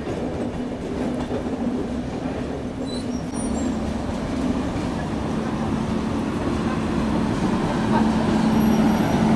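Passenger train rolling slowly out of a station, heard from an open coach door: a steady rumble of wheels on track under a low hum that swells near the end.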